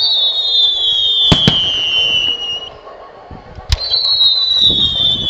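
Fireworks: a long whistling tone that slides slowly down in pitch, broken by sharp bangs of bursting shells about a second and a half in and again near the end, where a second falling whistle begins.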